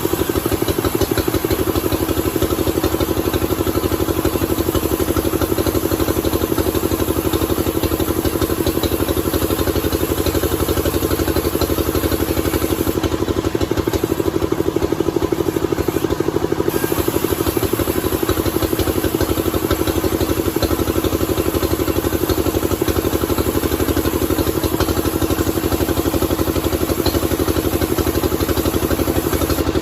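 An engine running steadily at a constant speed, with a rapid, even firing pulse and no change in pitch.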